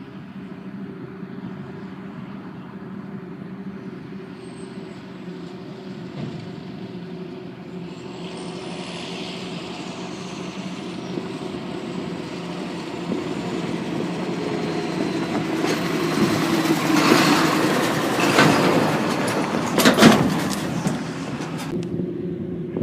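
Heavy farm machinery on silage work: a diesel engine running steadily and growing louder as it comes closer, loudest a few seconds before the end, then its rushing noise drops away suddenly.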